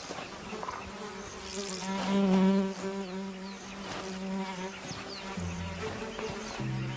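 Tsetse fly buzzing in flight, a steady drone that swells loudest about two seconds in as it passes close.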